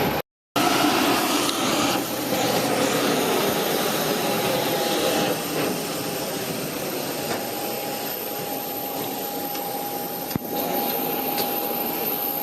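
Steady rushing air noise inside an Airbus A320 cabin parked on the ground, from the air-conditioning supply, with a thin steady hum in the background. The sound drops out briefly just after the start, and there is a small knock about ten seconds in.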